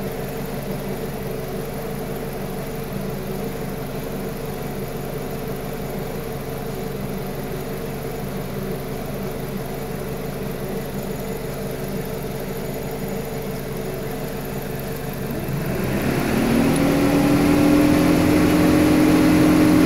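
Car petrol engine with coil-pack ignition running steadily at idle. About 16 seconds in, a rising whir swells louder and settles at a higher steady pitch.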